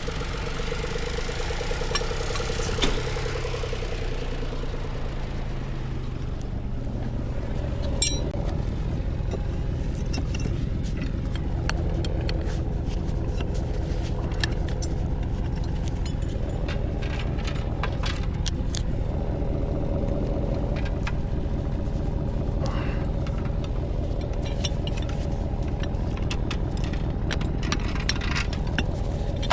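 A truck's engine running steadily with a low rumble, with frequent light rattling and clinking throughout.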